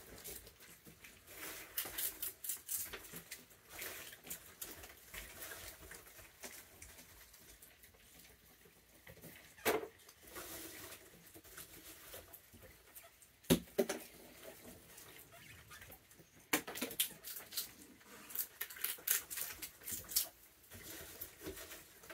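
Raccoon eating treats at close range: clusters of quick crunching clicks, with two sharper single knocks about ten and fourteen seconds in.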